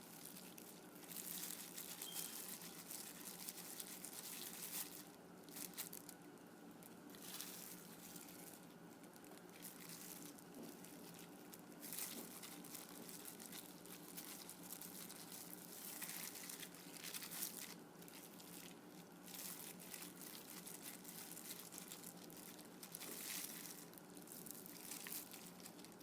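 Hands rubbing thick, wet masala paste onto raw, skinless Cornish hen pieces and turning them over: faint, irregular squishing and rubbing noises.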